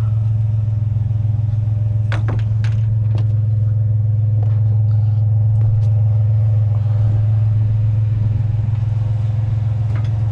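Truck engine idling steadily with a low hum, and a few short clanks of scrap metal being handled and loaded.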